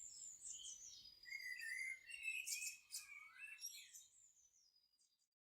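Songbirds chirping and warbling in overlapping calls, fading away to silence near the end.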